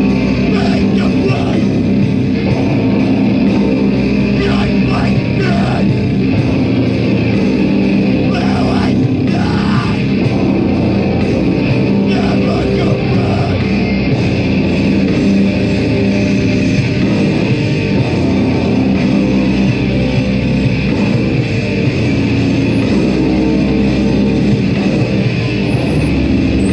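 Heavy band playing live, loud and continuous, a dense wall of amplified heavy metal with no breaks.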